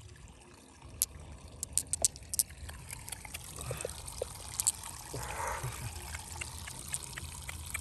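Water trickling and pouring, with scattered sharp clicks, a few in quick succession about two seconds in.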